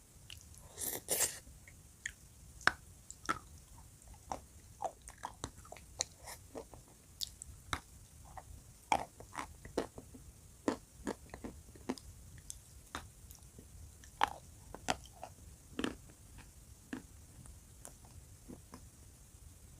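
A person biting and chewing dry chalk coated in blue clay paste, close-miked: a louder bite about a second in, then many short, sharp, irregular crunches that thin out near the end.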